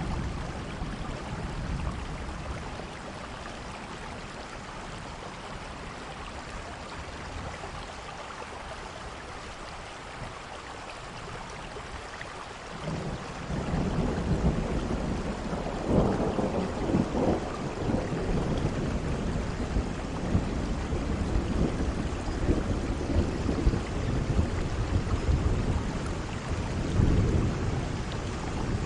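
Steady heavy rain with a thunderstorm: about halfway through, a long, low thunder rumble builds and rolls on to the end, with sharper crackles in it.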